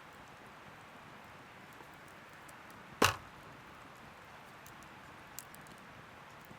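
One sharp snap or knock about three seconds in, over a steady faint hiss, with a few faint ticks after it.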